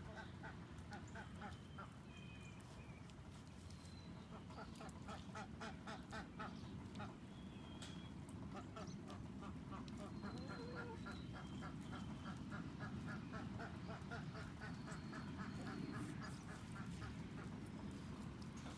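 Ducks quacking in runs of rapid quacks, over a steady low background noise, with a few short high bird chirps in between.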